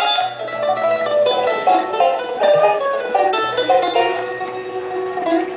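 A bluegrass band playing a fast instrumental, with rapid picked banjo and mandolin runs over held low bass notes.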